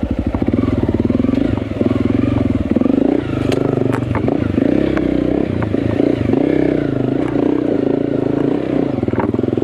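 Dirt bike engine running on and off the throttle over rough trail, its note rising and falling. Sharp knocks and clatter from the bike over the terrain come a few seconds in.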